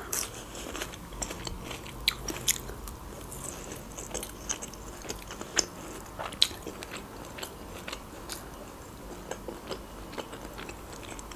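Close-miked chewing of a mouthful of food: a string of short wet mouth clicks and smacks, scattered unevenly throughout.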